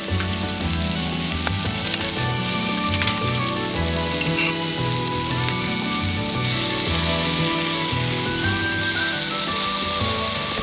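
Food frying in a hot pan, a steady sizzle, with faint background music.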